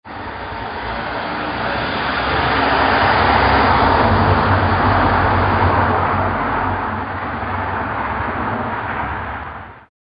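London taxi's engine running as the cab drives along, with road noise. It swells to its loudest a few seconds in, eases off slightly, and cuts off abruptly near the end.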